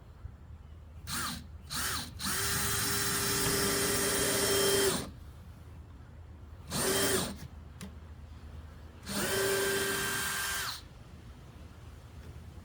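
Electric drill run in trigger bursts, as when driving screws into wood: two short blips, a steady run of about three seconds, another short blip, then a run of about two seconds. Each run holds one steady pitch.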